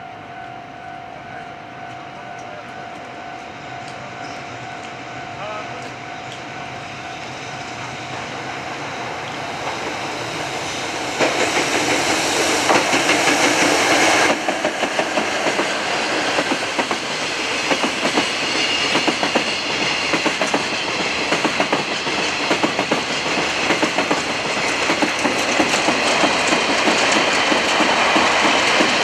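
Freight train hauled by a JR Freight EF66 electric locomotive approaching and passing, growing steadily louder. About eleven seconds in, a loud rush as the locomotive goes by. After it, a long string of Wam 80000 two-axle covered freight wagons rolls past with a steady clickety-clack of wheels over the rail joints.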